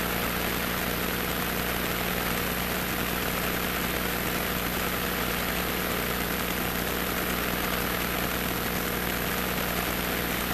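Cessna 150's four-cylinder Continental O-200 engine and propeller running steadily at low taxi power, an even drone with a constant hiss over it.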